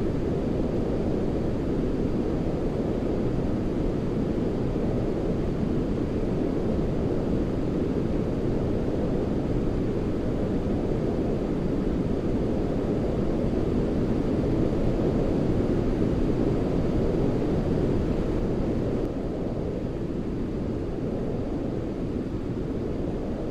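Steady, low-pitched rushing noise from a baby-sleep white-noise track, deep rather than hissy, with no pattern or rhythm. It drops slightly in level about nineteen seconds in.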